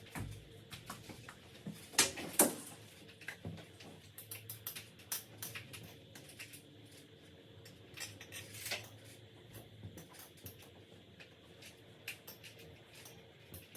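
Scattered light clicks and knocks of small hard objects being handled, with two louder knocks about two seconds in.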